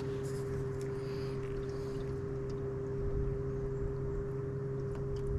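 Small boat's motor running with a steady, even hum while the boat moves slowly on the river.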